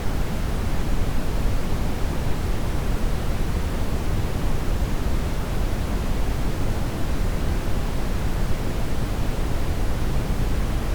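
Steady brown noise: an even, deep rushing hiss, strongest in the low end and fading toward the top, unchanging throughout.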